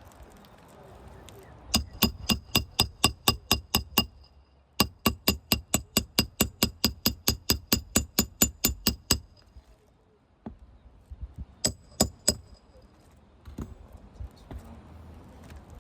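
Hand hammer striking metal in fast runs of about five blows a second, each blow with a short metallic ring: a run of about a dozen, a pause, a run of about twenty, then three more blows near the end.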